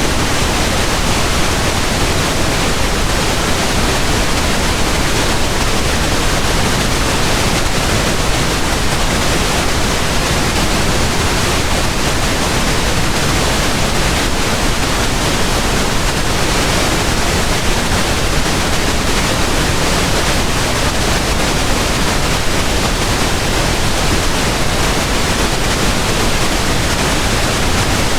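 Steady pink noise: an even, unbroken hiss across all pitches, loud and unchanging.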